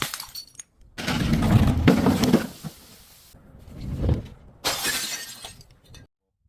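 Glass shattering and crunching as a glass bottle is broken, in several separate bursts: the longest and loudest starts about a second in, and shorter ones follow near the middle and later, each cutting off suddenly to silence.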